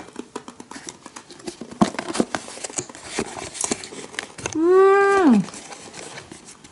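Irregular crisp crunching and crackling of a chocolate-flavoured puffed snack being bitten and chewed, then a long hummed 'mmm' of enjoyment about four and a half seconds in.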